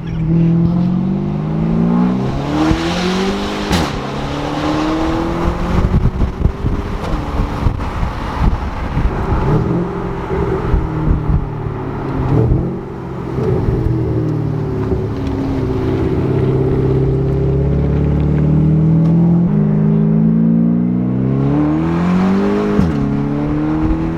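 Porsche Panamera Turbo's twin-turbo V8 through a custom stainless GT3-style exhaust, under hard acceleration: the engine note climbs in pitch and drops sharply at each upshift, three times, with a long rising pull near the end.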